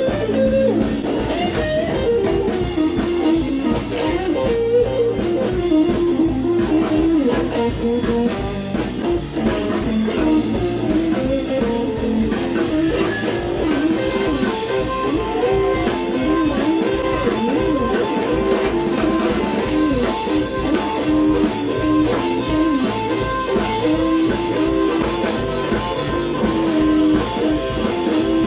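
Live blues-rock band playing an instrumental passage: a guitar carries the melody with bending notes over a drum kit.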